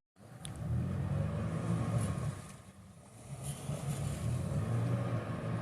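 An engine running with a low hum that eases off about halfway through and then picks up again.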